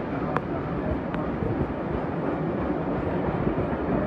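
Train running at speed heard from an open carriage window: a steady rumble of wheels on the rails mixed with rushing wind, with two sharp clicks a little under a second apart near the start.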